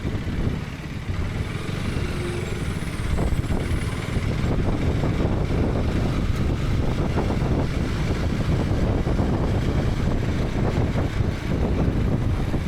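KTM 250 Adventure's single-cylinder engine running under way, with road noise, heard from a helmet-mounted camera; it gets louder about three seconds in and holds there.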